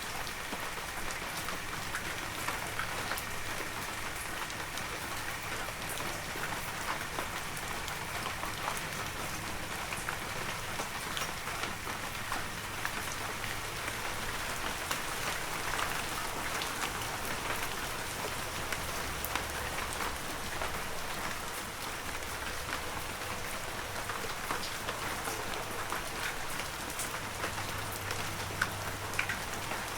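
Heavy rain falling steadily, a dense even hiss with many individual drops pattering through it.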